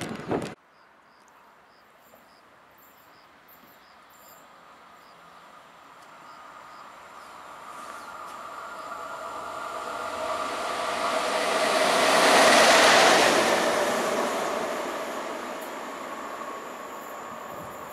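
A train passing on the line: its rail and running noise, with a steady hum, swells slowly to a peak about two-thirds of the way through and then fades.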